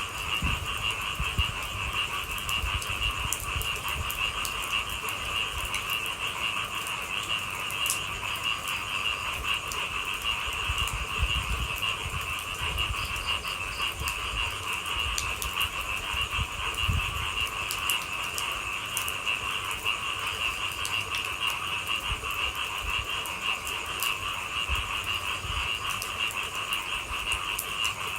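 Steady, dense chorus of frogs calling, with scattered faint taps and a low rumble underneath.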